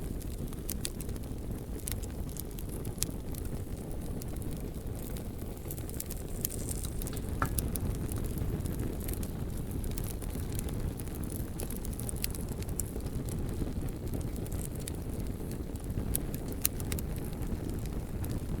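Bonfire burning: a steady low rumble of the flames with frequent sharp crackles and pops from the burning logs, scattered irregularly.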